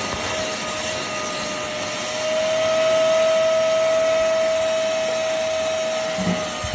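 Hoover CleanSlate Plus portable spot cleaner's suction motor running with a steady whine, growing louder for a couple of seconds in the middle.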